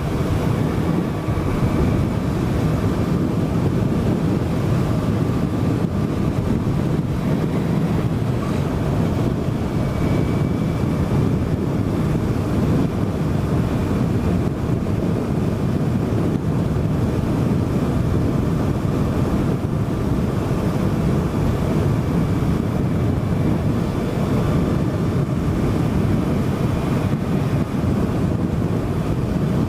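Wind buffeting the rider's microphone at road speed on a 2018 Suzuki GSX-S1000, with its inline-four engine running steadily underneath. The rush is a loud, steady, deep one.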